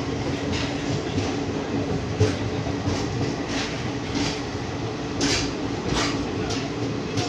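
Passenger train running at speed: a steady rumble with wheel clacks over the rail joints, a little under two a second. The clacks are loudest about five and six seconds in.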